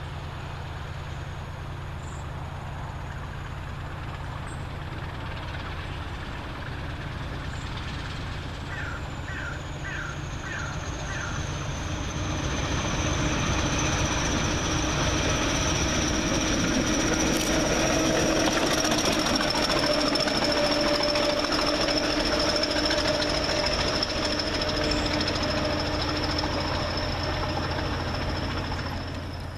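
British Rail Class 20 diesel-electric locomotive passing through a station under power, its engine running with a steady rumble and a high whistle. The sound grows louder towards the middle and then eases as it goes by.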